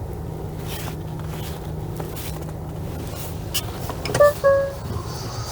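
Steady low engine and road hum inside a moving taxi's cabin. About four seconds in, two short electronic beeps sound, the second a little longer.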